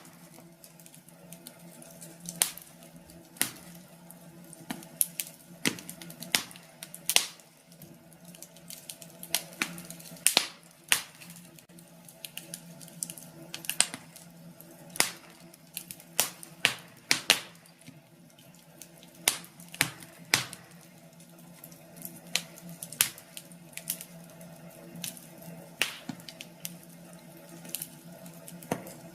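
Wood fire in a fireplace crackling, with irregular sharp pops and snaps, over a steady low hum.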